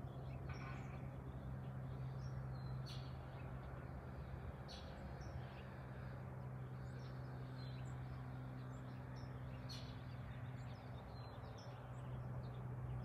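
Small birds chirping here and there in short high calls, over a steady low hum.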